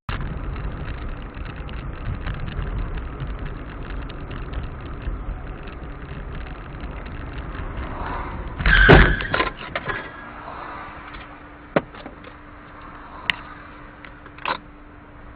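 Car driving with steady road and engine rumble, then one loud collision impact about nine seconds in, followed by a few short sharp knocks.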